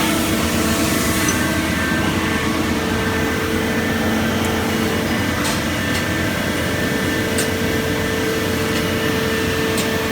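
Citizen A20 Swiss-type CNC lathe running: a steady machine hum with several held tones, and a faint tick a few times.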